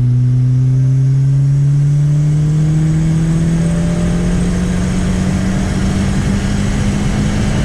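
Turbocharged Chevette four-cylinder engine accelerating hard in one gear, its engine note rising slowly and steadily.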